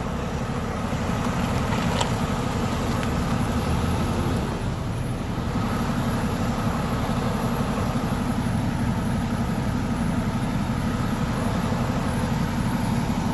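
Steady, low-pitched rumble of motor vehicles: engines running and road traffic noise, with a faint click about two seconds in.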